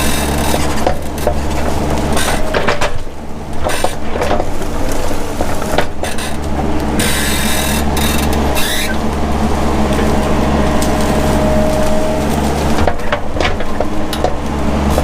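Mini excavator engine running steadily while brush and branches crack and snap as the machine clears underbrush, with a brief hiss a little past the middle.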